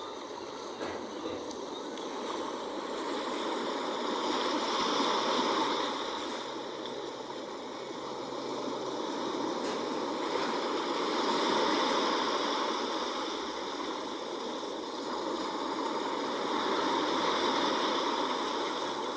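Sea waves washing onto the shore, a steady rush of surf that swells and eases about every six seconds.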